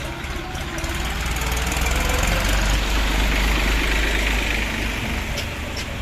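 Diesel vehicle engine running on a road: a low rumble that grows louder about a second in and stays strong, over a haze of road and tyre noise.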